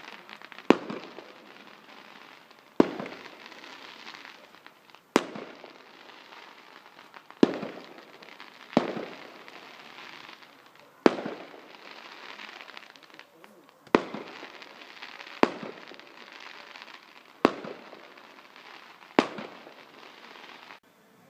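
Aerial fireworks going off: about ten sharp bangs, roughly one every two seconds, each trailing off in a crackling echo.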